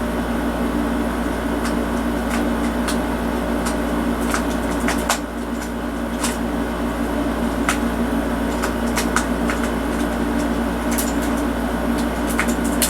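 Steady mechanical hum, with scattered light clicks and taps of hard plastic toy parts being handled as a piece is worked out of the toy truck.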